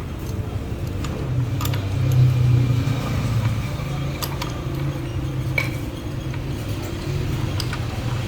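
A steady low engine-like rumble with scattered sharp metallic clinks, like tools or parts knocking on metal, about five of them.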